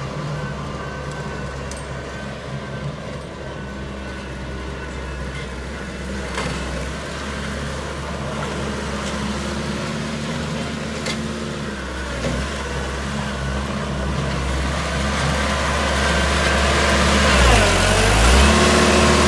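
Mahindra 6010 tractor's diesel engine idling steadily, getting louder over the last few seconds, with a few faint clicks.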